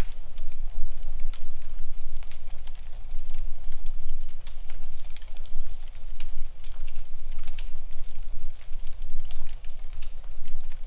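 Wood fire crackling in a fireplace: frequent irregular snaps and pops over a steady low rumble.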